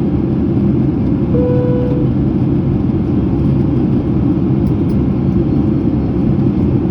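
Steady cabin noise of a Boeing 767-300ER in flight: a constant low rumble of the twin jet engines and airflow, with a steady low hum. A short faint tone sounds briefly about a second and a half in.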